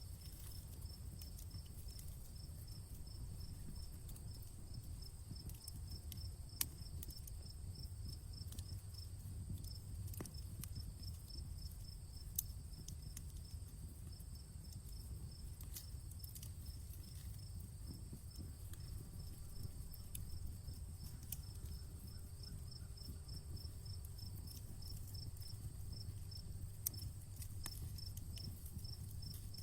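Crickets chirping in a steady, evenly pulsed rhythm with a continuous higher insect trill, over the low rumble of a wood campfire that gives a few sharp pops, the loudest about a third of the way in, near the middle and near the end.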